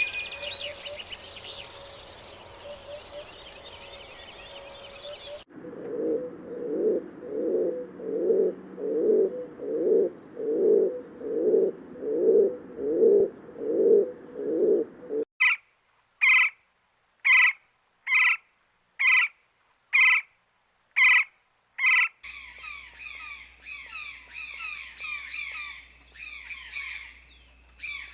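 A run of separate bird recordings. Chirping first, then about a dozen low calls repeated a little more than once a second. Then nine short, evenly spaced calls against silence, and busy chirping again near the end.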